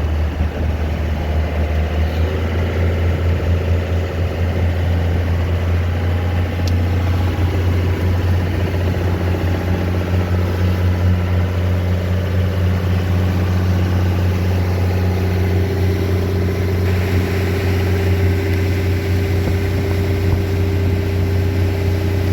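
Yamaha FR-27DX motorboat's engine and stern drive running steadily under way, a deep hum with steady overtones; a little after halfway a brighter hiss joins it. The owners report a vibration in the stern-drive leg.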